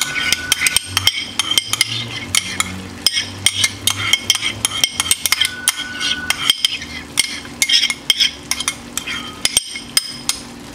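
Chicken pieces and mushrooms in a caramelized malt-soda sauce sizzling in a hot pan, with dense, irregular crackling pops, as cold cream is poured over them.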